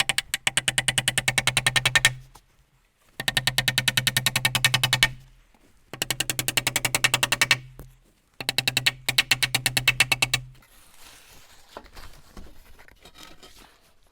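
A handheld power tool runs in four bursts of about two seconds each. Each burst is a rapid train of clicks over a steady motor hum, as when driving screws.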